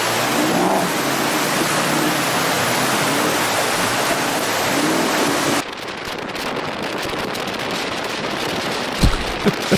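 Loud rushing water of a river crossing. About five and a half seconds in it cuts off suddenly to a duller rushing noise, with a few short thumps near the end.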